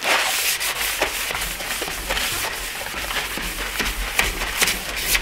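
A sheet of newspaper being crumpled and handled: a dense, irregular run of crackles and rustles.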